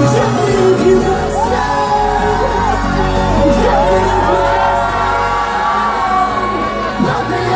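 Live pop song played loud over a club sound system, with a singing voice gliding over a steady bass line and a few yells and whoops.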